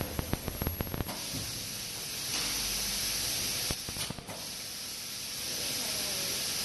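Compressed air hissing from an ultrasonic plastic welding machine's pneumatic system, in two long stretches. A quick run of clicks and knocks comes in the first second, with a few more knocks between the stretches.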